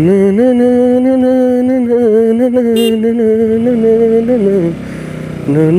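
A voice singing or chanting long held notes that waver slightly and slide down before a short break, then start again near the end, over the noise of a motorcycle ride.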